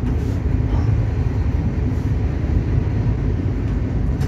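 Steady low rumble of a Shatabdi Express passenger train running at speed, heard from inside the coach: wheels rolling on the rails.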